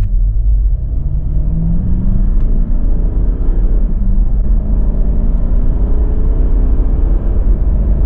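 Toyota LandCruiser 200 Series twin-turbo V8 diesel accelerating at half throttle, heard from inside the cabin, with its throttle controller on the most aggressive 'ultimate 9' setting. The engine note climbs in pitch as the revs rise, over a heavy low rumble of engine and road noise.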